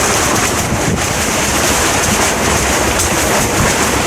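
Strong wind buffeting the microphone over a steady hiss of heavy rain and choppy, wind-driven waves, a continuous storm roar.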